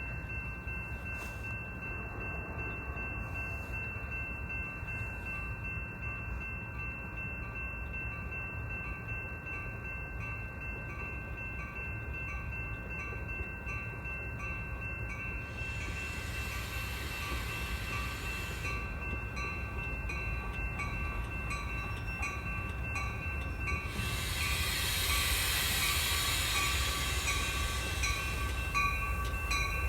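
A bell rings steadily with regular strokes as a Metra commuter train comes in, its low rumble growing louder. Two spells of high hiss come over it in the second half.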